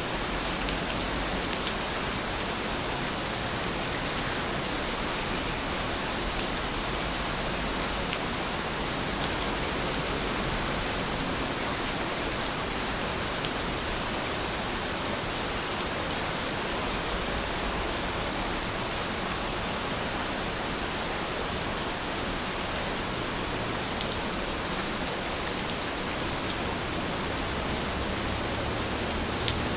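Steady, dense rainfall: an even hiss of rain with a few faint individual drop ticks.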